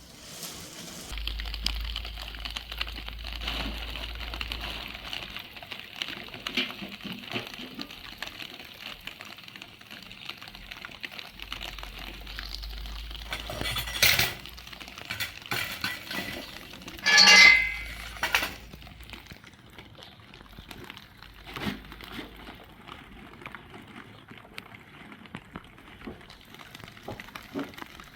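Dishes and utensils clinking, with scattered light clicks and a louder ringing clink a little past the middle.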